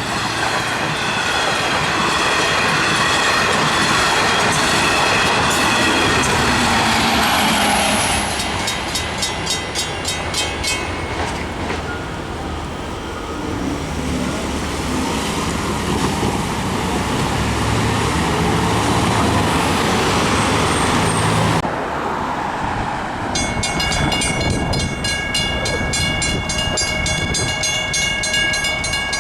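Long Island Rail Road train passing over a road grade crossing, its wheels rumbling and clattering on the rail joints, just after a horn blast. Near the end the crossing's warning bell rings rapidly and steadily.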